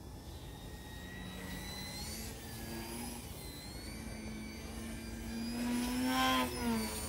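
Electric RC foam plane's brushless motor and propeller buzzing, changing pitch with the throttle. It grows louder and is loudest about six seconds in, where the pitch dips.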